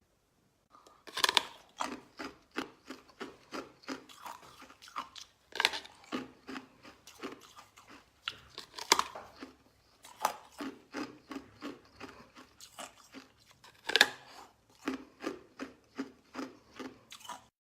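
A person chewing crunchy food close to the microphone, with crisp, rhythmic chews about two to three a second. Louder crunching bites come about a second in, near the middle, and again later.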